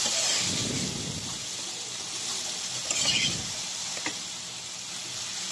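Parboiled mixed vegetables sizzling in hot oil and fried spice paste in a pot, just after being added. The hiss dies down over the first second, and a second brief sizzle comes about three seconds in.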